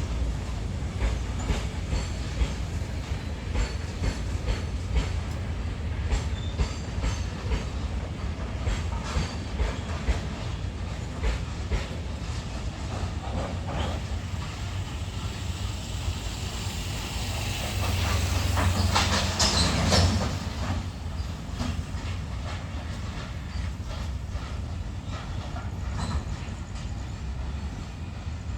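Indian Railways freight train wagons rolling past, the wheels clacking steadily over rail joints over a low rumble. The sound swells about two-thirds of the way through, with a brief high metallic wheel screech.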